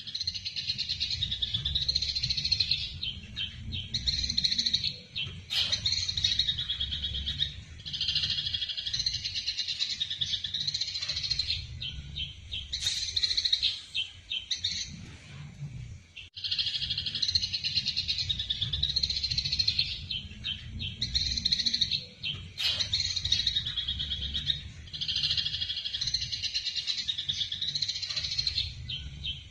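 Eurasian tree sparrows giving rapid, dense chattering chirps, the agitated calls of sparrows fighting, with a short lull about halfway through.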